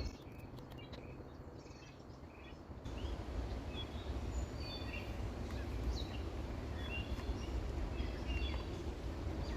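Birds chirping, short scattered calls over a steady low outdoor rumble. The background noise gets louder about three seconds in.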